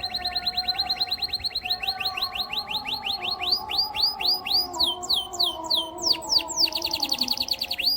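Canary song: fast trills of repeated downward-sweeping chirps. Three to four seconds in they slow into longer sweeping notes, then speed up again into a rapid trill that cuts off suddenly.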